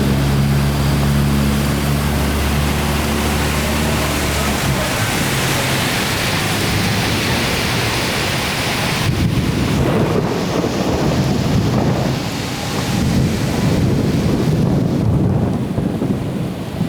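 Heavy rain pouring down in a thunderstorm, a dense steady hiss. A vehicle engine hums under it for the first four seconds or so, then fades out, and from about nine seconds in a lower rumbling sound grows while the hiss thins.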